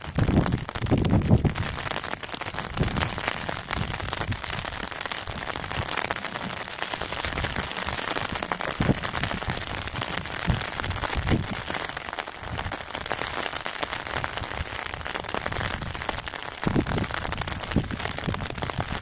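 Steady rain falling, an even crackling patter of drops hitting the ground and nearby surfaces. In the first second or two, wind buffets the microphone with a low rumble.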